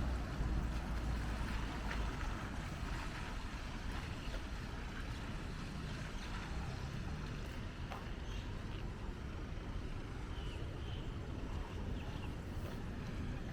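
Steady street ambience: a low rumble of traffic under a continuous hiss with a few faint ticks.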